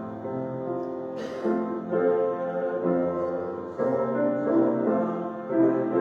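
Piano playing slow, held chords, with a brief noise about a second in.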